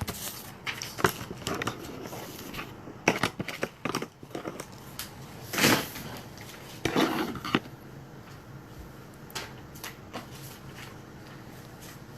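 Paper rustling and crinkling with scattered small clicks and knocks as paper puppet pieces and craft supplies are handled at a table, with a louder rustle about six seconds in and another about a second later.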